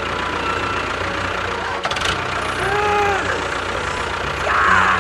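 A steady, low engine running at idle. There is a sharp click about two seconds in, and short swooping pitched tones just before the middle and again near the end.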